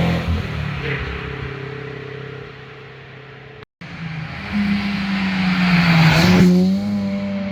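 Car engines passing at speed on a winding road. One fades away, then after a short cut another approaches and passes close about six seconds in, its engine note dipping and picking up again as it goes by.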